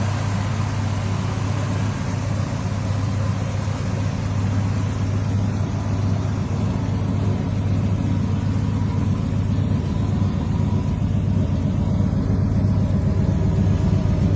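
Car's V8 engine running steadily, with a strong, even low hum.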